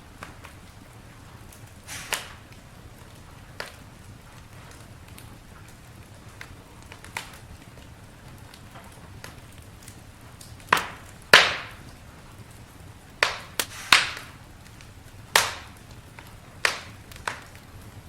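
Campfire crackling: scattered sharp pops and snaps over a low steady rumble, coming more often and louder in the second half.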